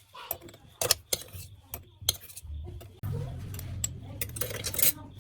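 Small metal parts clinking and knocking as they are handled, a string of separate sharp taps. About three seconds in, a low steady hum starts under the taps.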